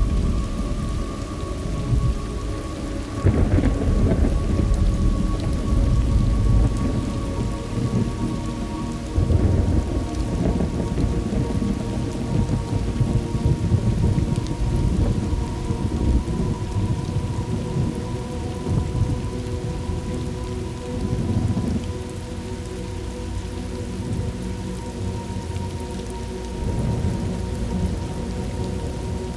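Thunderstorm ambience: steady heavy rain with deep rolling thunder, the longest rumbles a few seconds in and about ten seconds in, and fainter rolls later on. A faint steady hum runs underneath.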